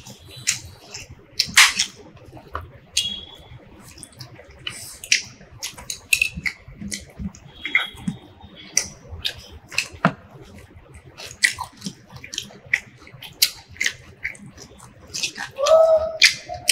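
Close-miked eating sounds of two people eating roti, rice and pea curry by hand: irregular wet chewing clicks and lip smacks. There is a brief vocal sound near the end.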